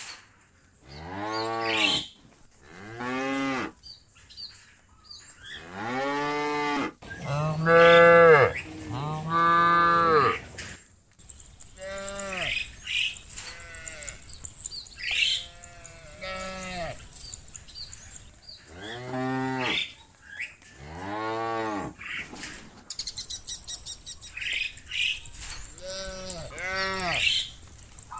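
Cattle mooing over and over, many separate calls one after another, each rising then falling in pitch. The loudest two come about eight to ten seconds in.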